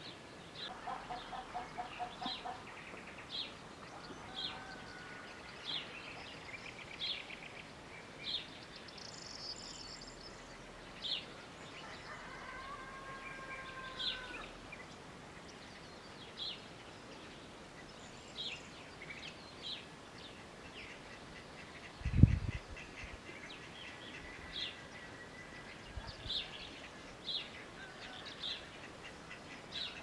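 Birds calling: short high chirps repeating roughly once a second, with two lower, drawn-out calls, one near the start and one about halfway through. A single loud low thump comes late on.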